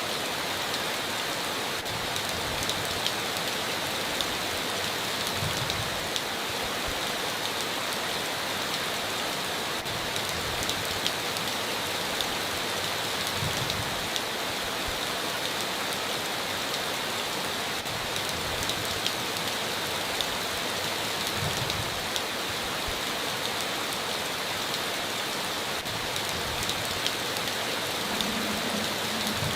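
Heavy rain falling steadily on a tin roof, a constant hiss with individual drops ticking sharply through it.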